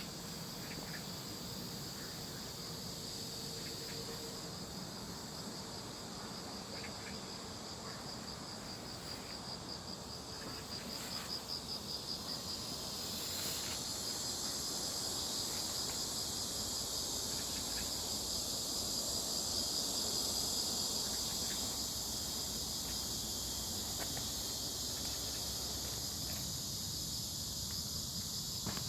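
Insects chirring steadily in a dense, high-pitched chorus. A pulsing trill grows louder about eleven seconds in, and the chorus stays fuller after that.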